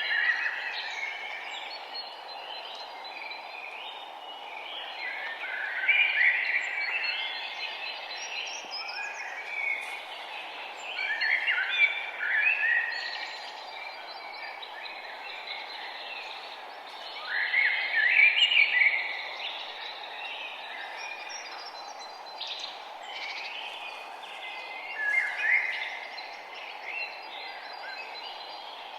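Birdsong outdoors: a bird sings a short song phrase every six seconds or so, with fainter chirps between, over a steady background hiss.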